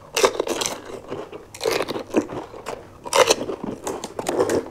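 Crisp panipuri shells crunching as they are bitten and chewed, in about four short bursts.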